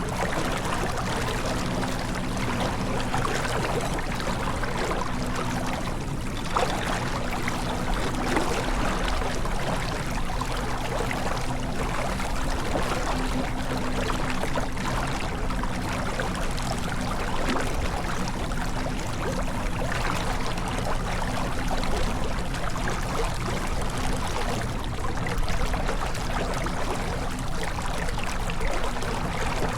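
Water rushing and splashing along the hull of a J24 sailboat under way, with a steady low hum underneath.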